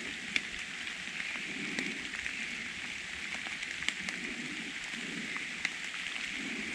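Steady patter of rain falling on the woods, with footsteps through wet leaf litter about once a second and a few sharp clicks of drips or snapping twigs.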